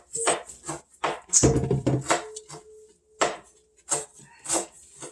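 A kitchen knife chopping food on a cutting board, irregular knocks, with a louder knock about a second and a half in.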